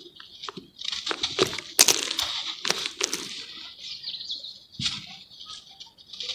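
Charcoal crumbling in water: an irregular crackling hiss broken by sharp snaps, the loudest about two and three seconds in.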